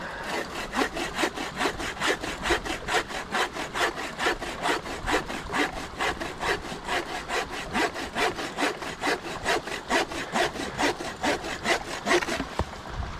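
Hand saw cutting through wood in quick, even back-and-forth strokes, about four a second, stopping shortly before the end.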